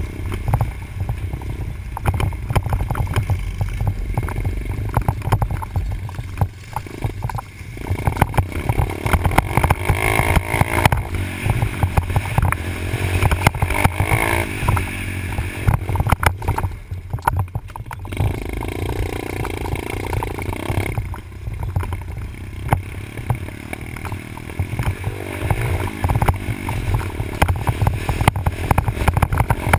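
Dirt bike engine revving up and down as it rides the track, its pitch rising and falling several times over a heavy, steady low rumble.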